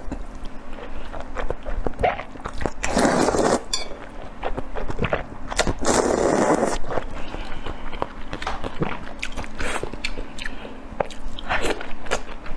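Close-miked chewing and biting of food: a run of short wet clicks and crunches, with two longer, louder smacking stretches about three and six seconds in.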